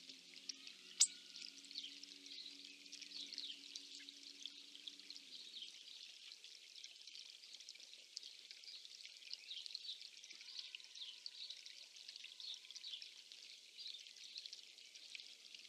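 Woodland birdsong: many small songbirds chirping and singing over one another, with a faint low hum that fades away about five seconds in and a single sharp click about a second in.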